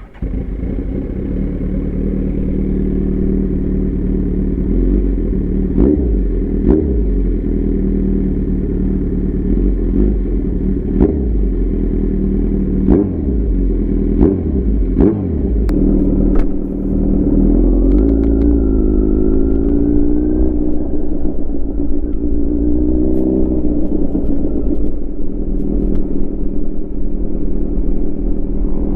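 Kawasaki Z900's inline-four engine idling through an SC Project CRT slip-on exhaust, with a string of quick throttle blips and then a couple of longer revs that rise and fall.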